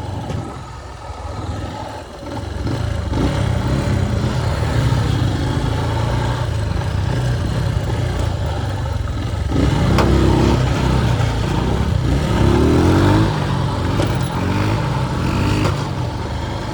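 Motorcycle engine running while riding, with wind noise on the microphone; in the second half the engine pitch rises and falls several times as it revs up and eases off.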